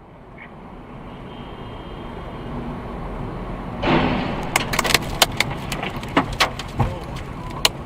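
Vehicle road and engine noise building steadily. About four seconds in comes a loud sudden impact, then a run of sharp knocks and clattering, as in a collision with debris striking the vehicle.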